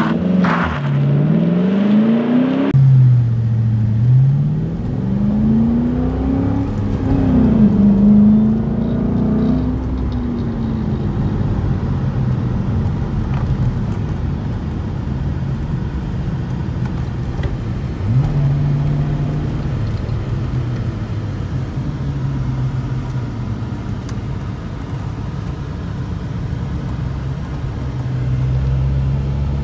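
The 4.6-liter V8 of a 2008 Ford Mustang GT, its engine note rising and falling several times over the first ten seconds, then running at a steady low drone as the car moves slowly. There is a brief rise in pitch about eighteen seconds in.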